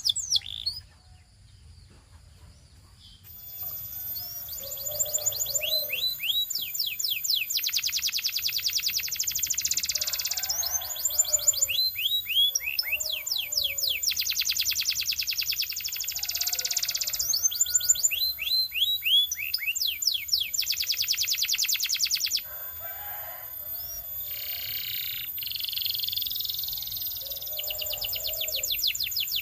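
A Belgian canary singing a long, loud song of fast trills and rapid runs of downward-slurred whistles. The song breaks off about a second in and starts again about three seconds in.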